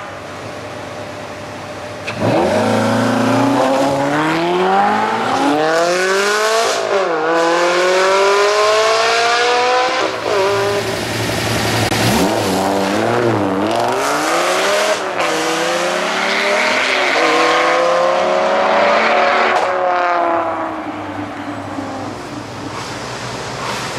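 Supercar engines at full throttle, accelerating hard. The engine note starts suddenly about two seconds in and climbs in pitch through the gears, dropping briefly at each upshift. A second hard run climbs again and eases off near the end.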